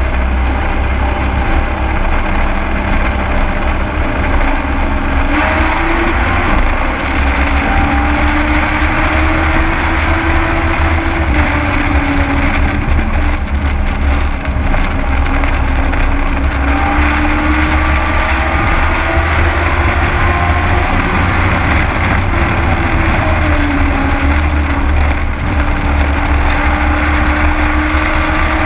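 Race truck's engine heard from inside the cab while lapping the track, with a heavy low rumble underneath. The engine note rises and falls in slow sweeps as the driver lifts for the turns and gets back on the throttle.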